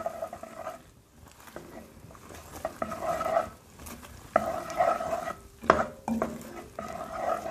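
Wooden spoon stirring popcorn through hot molasses syrup in an enamelled cast-iron pot, in repeated scraping, rustling strokes, with one sharp knock against the pot late on.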